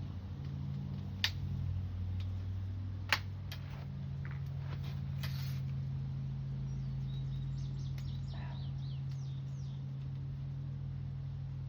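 Sharp clicks and light taps from a metal spline being worked into a window screen frame, two of them loud in the first few seconds, over a steady low hum. A run of short high chirps comes in about halfway through.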